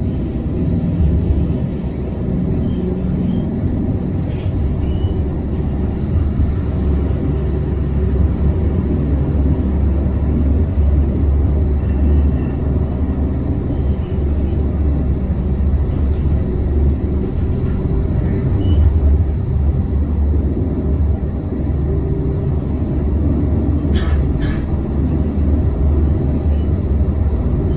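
Amsterdam tram running between stops, heard from on board: a steady low rumble with scattered light clicks and rattles, and a brief sharp sound from the running gear near the end.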